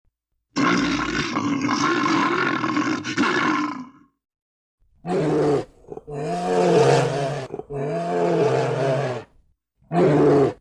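Bear roaring: one long rough roar of about three seconds. After a pause come four shorter calls whose pitch wavers up and down, each stopping abruptly.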